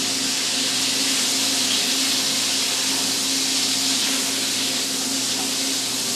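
Onions frying in bacon fat in a pan, giving a steady, even sizzle, with a steady low hum underneath.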